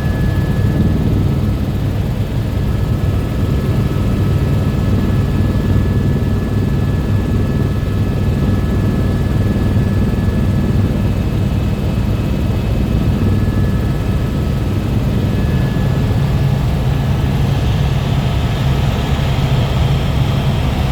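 Helicopter in flight: the rotor's steady low chopping throb with a faint, steady high whine above it.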